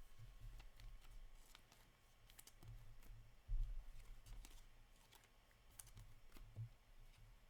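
Faint, scattered clicks and taps of hockey trading cards being handled and flipped through, with a low thump about three and a half seconds in.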